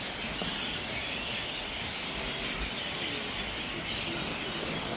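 A flock of birds in the trees chirping and calling all at once, a dense, unbroken chatter.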